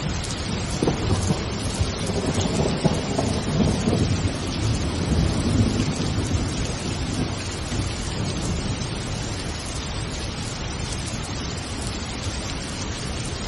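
Steady rain, with a low rumble of thunder rolling through the first half and then dying away.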